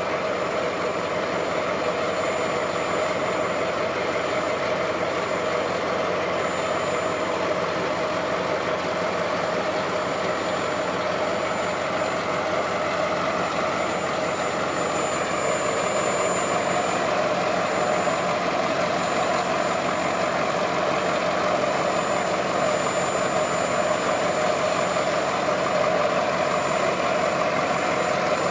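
Steady, unbroken engine and running noise of a small tourist train.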